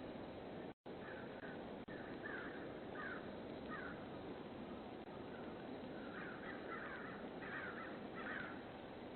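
Birds calling: a string of short repeated calls that come in clusters, thicker in the second half, over a steady background hiss heard through a doorbell camera's microphone. The audio drops out completely for a moment just under a second in.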